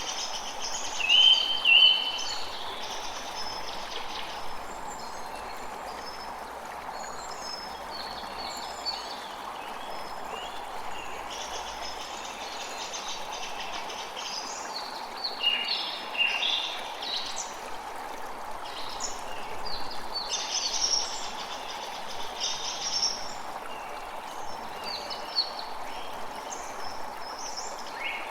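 A creek flowing steadily, with many small birds chirping and singing over it. The loudest calls come about a second in and again in clusters past the middle.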